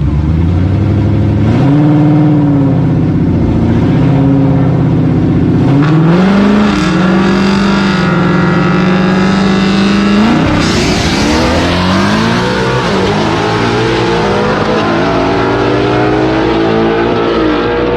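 Drag-racing car engines revving: the pitch rises and falls, is held steady for about four seconds, then about ten seconds in it breaks into a hard launch with the engine pitch climbing and dropping through the gears.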